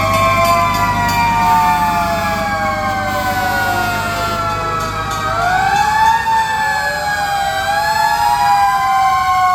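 Several fire truck sirens wailing at once, each rising and falling slowly in pitch out of step with the others. A truck engine rumbles underneath for about the first half.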